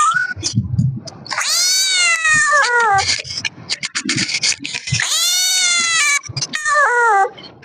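Kitten meowing: two long, drawn-out meows, the first about a second and a half in and the second near the middle, each ending in a falling pitch, with short clicks between them.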